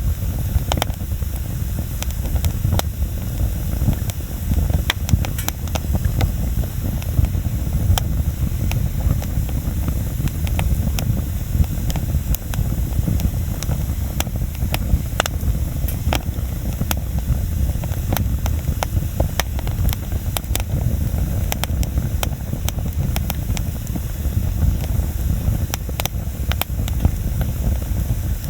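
Bonfire burning, with frequent sharp crackles and pops over a steady low rumble.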